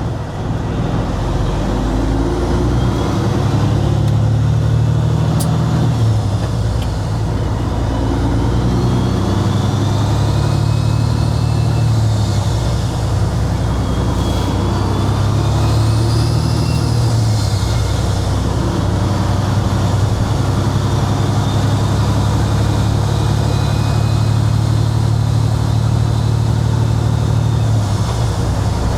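Kenworth W900 semi truck's diesel engine running under way, louder over the first couple of seconds and then steady.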